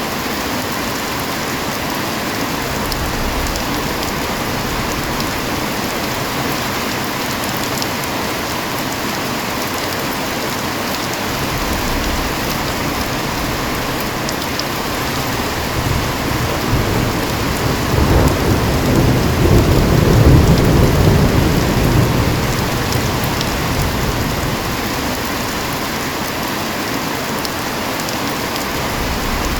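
Heavy rain falling steadily. About halfway through, a long low roll of thunder builds, is loudest around two-thirds of the way in, then fades back under the rain.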